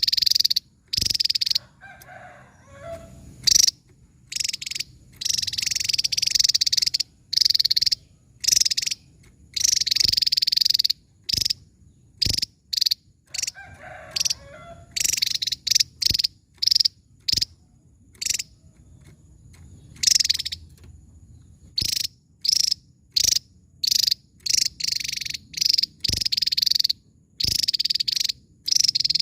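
Javan tesia singing: a quick succession of high, sharp bursts of song, each a fraction of a second to about a second long.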